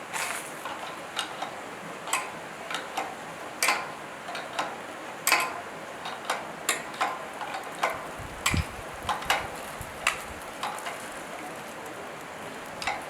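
Light metallic clicks and taps at irregular intervals, one or two a second, from hand tools and small metal parts being handled during work on a generator. One dull thump comes about eight and a half seconds in.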